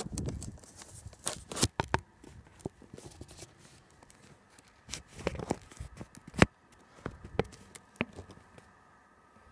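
Handling noise on a phone microphone: irregular clicks, knocks and rustles as the phone is held and shifted, with the loudest knocks at the very start and about six and a half seconds in.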